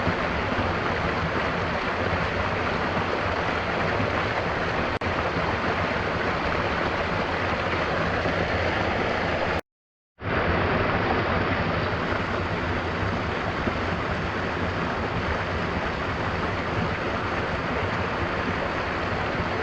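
Steady rush of a waterfall with gentle rain falling. Near the middle it cuts out to silence for about half a second, then comes back.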